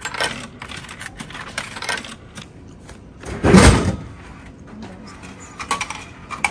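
A drink vending machine dropping a bottle into its tray with one loud thud a little past the middle, with light clicks and knocks of handling before and after.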